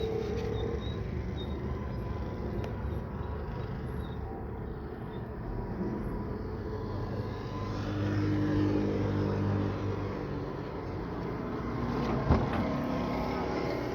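A car's engine running, its pitch rising for a few seconds in the middle, with a single sharp knock near the end.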